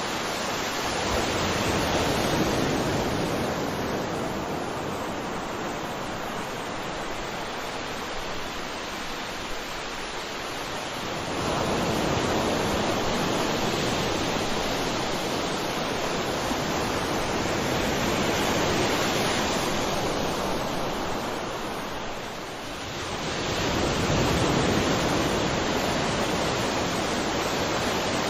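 Sea waves washing onto a shore: a continuous rushing wash that swells and eases, with surges a few seconds in, near 11 seconds, near 19 seconds and again near 24 seconds.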